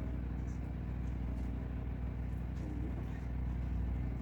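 Mini truck engine idling steadily, a low, even hum.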